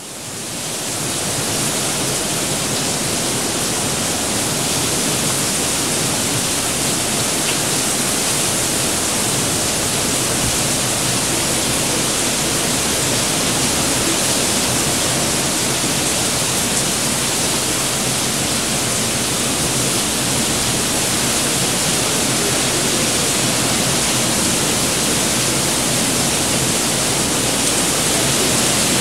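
Heavy rain pouring down in a steady, dense hiss that fades in over the first second or so.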